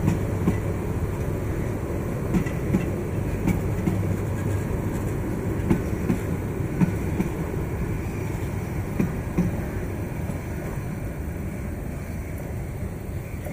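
Bangladesh Railway Subarna Express passenger coaches rolling past: a steady rumble of wheels on rails with irregular sharp clacks, growing fainter toward the end as the last coach moves away.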